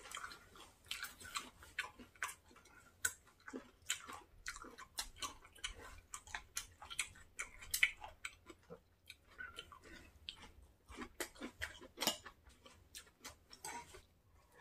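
A person chewing a mouthful of food close to the microphone: quiet, irregular wet mouth clicks and smacks.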